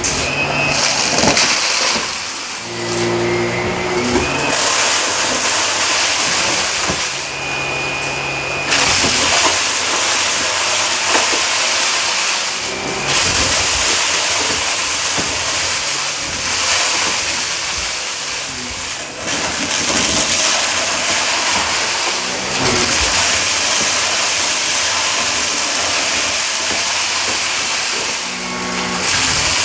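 Shark vacuum cleaner running over carpet, pushed back and forth in fast strokes, its loud airflow hiss surging and easing with each stroke. A lower motor hum shows through a few times, around 3 s, 8 s and near the end.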